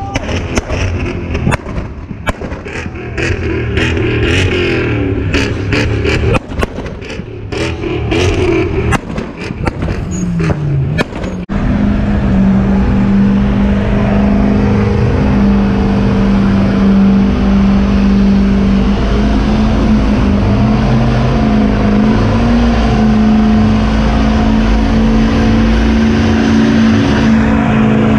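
A car engine revving at a street drift meet, with many sharp pops and cracks over the first half. About halfway through the sound changes abruptly to the engine held steady at high revs, as in a drift or burnout attempt.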